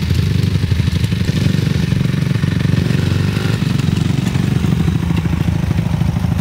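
Dirt bike engine running at a steady speed, a low, rapid throb.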